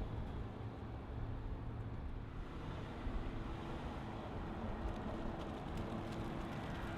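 2026 Toyota Tundra's i-Force Max 3.5-litre twin-turbo V6 hybrid engine idling steadily just after start-up, a low steady rumble.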